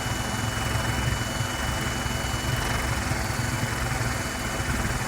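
Vacuum cleaner running steadily: an even motor and airflow noise with a low rumble and a thin, steady high whine.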